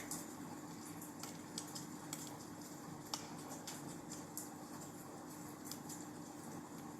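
Wood fire in a fireplace crackling: irregular sharp pops and snaps, a few a second, over a soft hiss and a faint steady hum.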